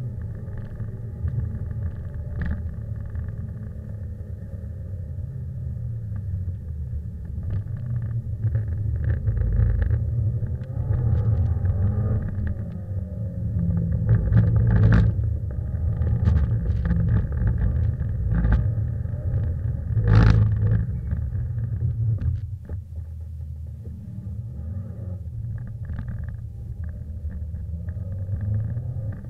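Subaru Impreza's flat-four boxer engine heard from inside the cabin while the car is driven hard: a low rumble that rises and falls with the throttle, with a few sharp knocks, the loudest about twenty seconds in.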